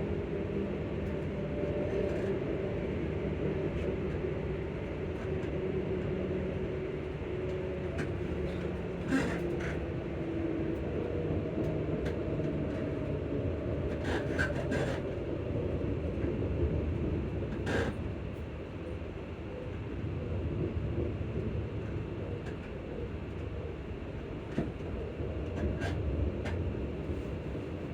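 ScotRail Class 334 electric multiple unit heard from on board: its traction motors whine with several steady tones that slowly shift in pitch, over a constant rumble of the train running on the rails. A few sharp clicks break in now and then.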